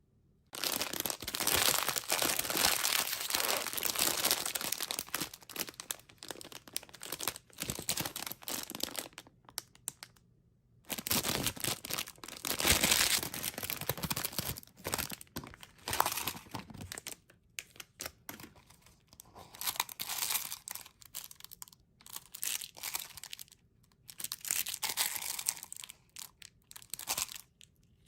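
Candy wrappers crinkling and tearing as sour candy packs are unwrapped by hand. There is a long stretch of continuous crinkling, a brief pause about ten seconds in, another long stretch, then shorter bursts of rustling and tearing.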